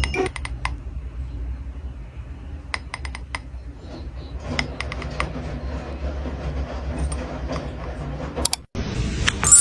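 Light sharp clicks and taps in short scattered runs, over a low steady hum.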